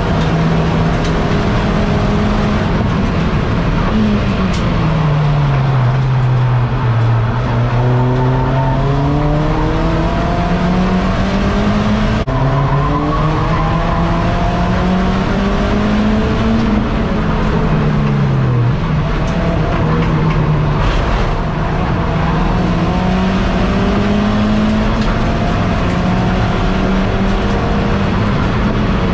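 SEAT Leon Cupra race car's engine heard from inside the cabin, revs rising and falling through gear changes, braking and acceleration, over steady road and wind noise. The revs fall sharply about four seconds in, then climb slowly for several seconds before dropping suddenly at an upshift.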